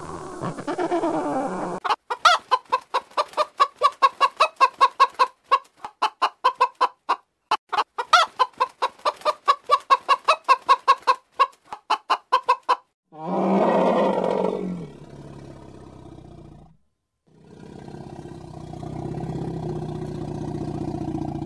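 Chicken clucking in a fast string of short sharp clucks, about three or four a second, for about ten seconds. Then come two longer, lower calls from a larger animal.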